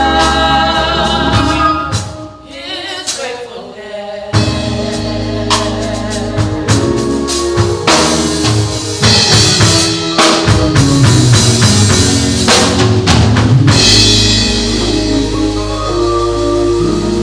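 Gospel song with singing over a drum kit and steady low bass notes. The music thins out about two seconds in and comes back in full with drums about four seconds in.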